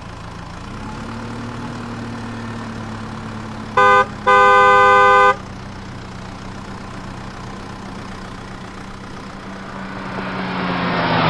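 Cartoon vehicle sound effects: an engine hums steadily and a horn honks twice about four seconds in, a short toot then a longer blast. A rushing sound swells near the end.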